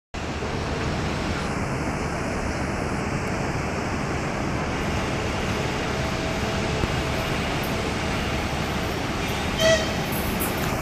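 Steady rumble of a passenger train at a railway station, with a short, loud high-pitched tone about nine and a half seconds in.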